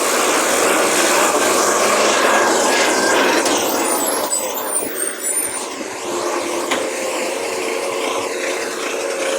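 A motor vehicle running, loud and steady, its noise easing off about four seconds in.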